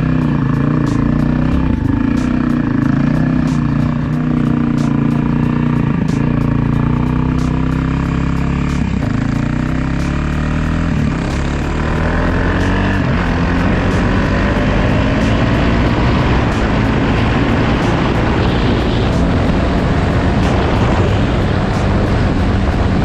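Dirt bike engine running under way, its pitch shifting with throttle and then climbing repeatedly as it revs up through the second half, with wind rushing over the microphone.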